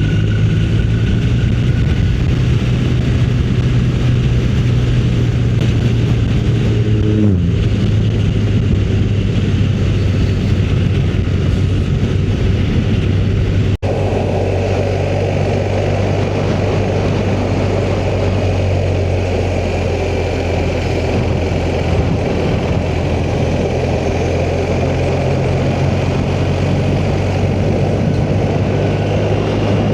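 Motorcycle engine running steadily at road speed, with wind and road noise rushing over the microphone. The engine pitch drops briefly about seven seconds in. About halfway the sound breaks off abruptly and resumes with more wind noise.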